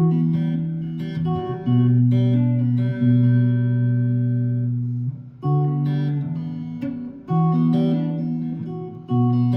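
Guitar playing a short picked riff in D: single notes and low open-string bass notes, each let ring, struck anew every second or two.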